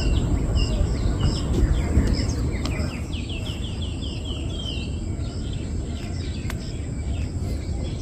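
Small songbirds calling in the trees, with scattered chirps and a fast run of short, falling chirps a few seconds in, over a steady low background rumble.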